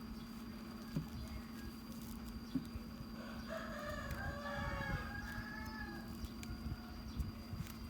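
A rooster crows once, a single long call of about three seconds starting near the middle, over a low steady hum and a couple of light taps.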